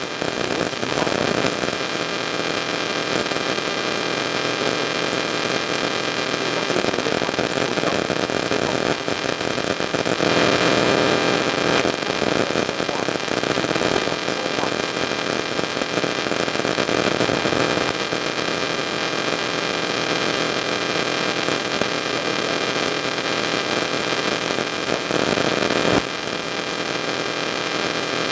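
Steady static hiss with electrical mains hum from the recording chain, dropping down a little near the end.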